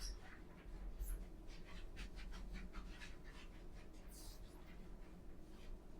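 Scrubbing strokes on a bathroom surface: a faint run of short scratchy rubs, a few a second, with a brief high hiss about four seconds in.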